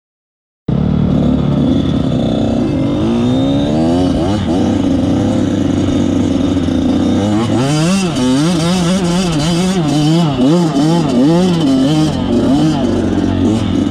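A vehicle engine starting abruptly and revving, its pitch climbing in sweeps, then swinging up and down about twice a second as the throttle is blipped repeatedly.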